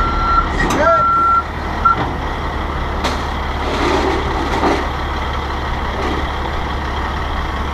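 Truck backup alarm beeping about once a second, stopping about two seconds in, over the steady low running of a dump truck's diesel engine.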